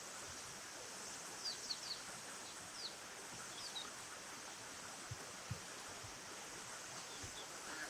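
Steady flowing-water noise with small birds chirping: short high down-slurred chirps, three in quick succession about one and a half seconds in, then a few single ones. A few soft low thumps come in the second half.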